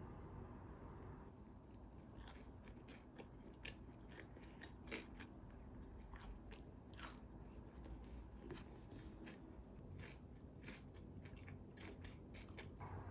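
Someone biting and chewing crunchy food close to the microphone: faint, irregular crisp crunches, starting about a second in.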